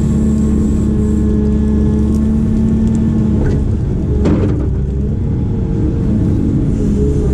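Diesel engine of a heavy excavator or backhoe running steadily, with a steady pitched whine that stops a little past three seconds in. A single sharp knock comes about a second later.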